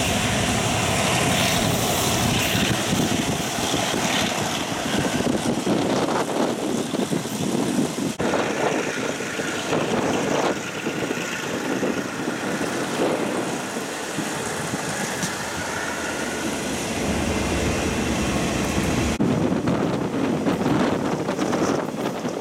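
Old Japanese-built passenger coach running along the track, heard from inside through an open window: a steady rolling rumble of the wheels on the rails with scattered short knocks.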